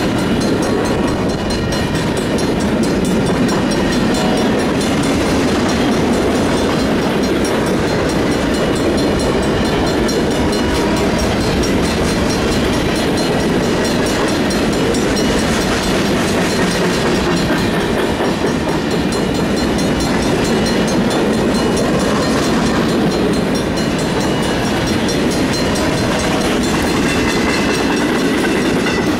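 Freight train cars rolling past at close range: a loud, steady rumble and rattle of steel wheels running over the rails.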